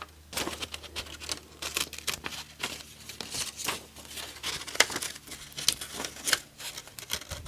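Paper being handled: irregular rustling and crinkling, with many short crisp clicks and crackles.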